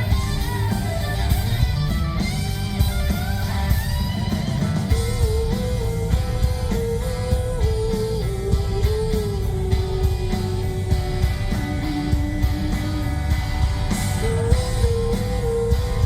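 A rock band playing live in an instrumental passage with no vocals. An electric guitar plays a melody of long held notes that step and slide between pitches, over bass guitar and a steady drum beat.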